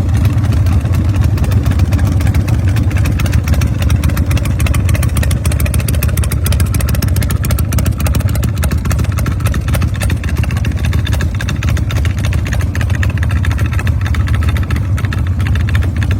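The RevTech 100 cubic inch V-twin of a 2003 Harley-Davidson hardtail chopper running steadily at a loud, deep idle.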